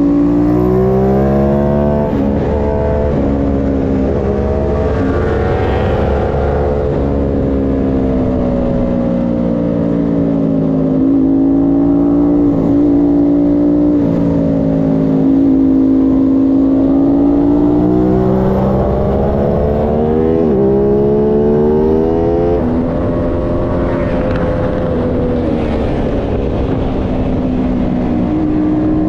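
Aprilia Tuono 660 Factory's parallel-twin engine at high revs on track. The pitch climbs and falls as the bike accelerates and slows, with sharp drops at gear changes about two seconds in and again near the end.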